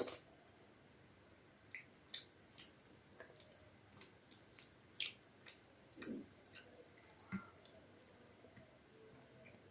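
Faint, sparse wet mouth clicks and squelches of someone chewing soft khichdi and chicken curry: about eight separate smacks, with quiet between them.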